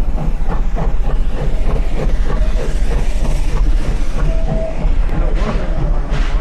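A train running on rails: a steady low rumble with a rhythmic clatter about three times a second, and a brief tone about four seconds in.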